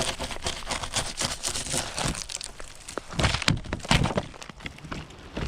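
Ice crunching and cracking in a quick run of small crackles, with two heavier crunches about three and four seconds in.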